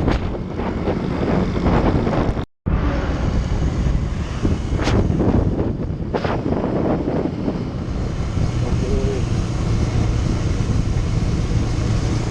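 Motorcycle engine running on the move, under heavy wind buffeting on the microphone. About two and a half seconds in the sound cuts out for an instant, and later a steady low engine note comes through.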